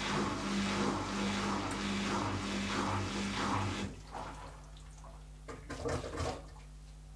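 Zanussi ZKN7120L front-loading washing machine washing: drum turning with water sloshing over a steady motor hum. The motor stops about four seconds in, followed by a couple of short sloshes and a steady low hum.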